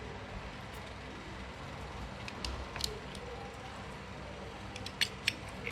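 A few light, sharp clicks of small parts being handled while an antique clock movement is taken apart, a couple in the middle and three quick ones near the end, over a steady low background hum.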